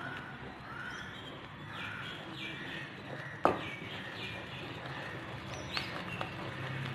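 Small birds chirping in the background, a run of short falling calls repeated every half-second or so. About three and a half seconds in, a single sharp knock sounds as the wooden spatula stirring the thick rice-flour batter strikes the steel pan.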